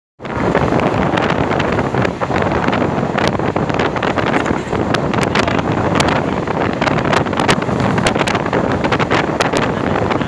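A passenger train running at speed, heard from an open window: a steady rush of wind and running noise, with sharp clicks now and then.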